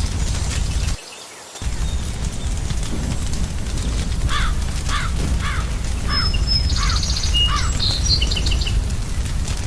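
Fireplace fire with a steady low rumble that cuts out for a moment about a second in. Midway a crow caws six times in quick succession, followed by higher bird chirps.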